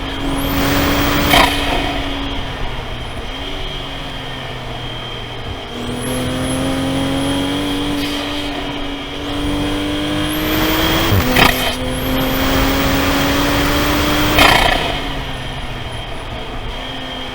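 Toyota GR Supra (A90) engine pulling hard under acceleration, its note climbing steadily and dropping back at three quick shifts: about a second in, around eleven seconds, and near fourteen and a half seconds. A steady hiss runs underneath.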